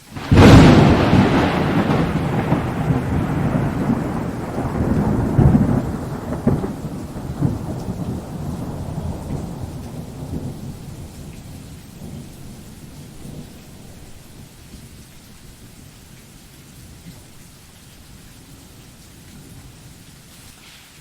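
A thunderclap that breaks suddenly, then rolls on as a long rumble, swelling again about five seconds in, and fades away over about ten seconds. Steady rain continues underneath.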